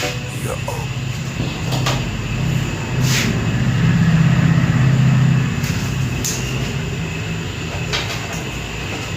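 A low steady rumble, louder for a couple of seconds in the middle, with a few short clicks.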